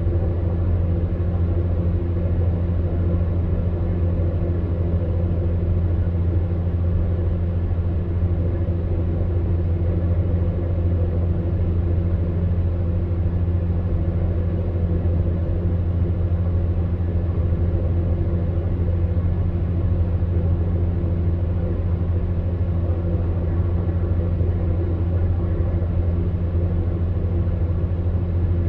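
Electric fan heater running steadily: a low, even motor hum over a soft rush of blown air, without change.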